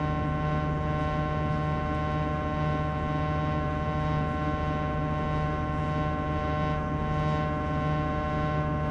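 Sharp AY-J40S-W air conditioner running with a steady droning hum made of many held tones at once: the abnormal noise from a frequency fault that repairs have not cured.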